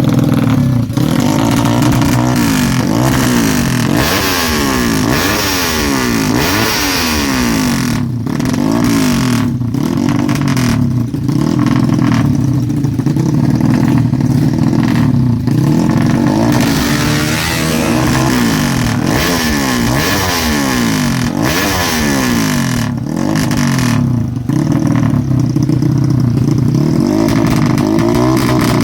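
Honda Karisma's single-cylinder four-stroke motorcycle engine, tuned for drag racing, revving up and down repeatedly, its pitch rising and falling about once a second.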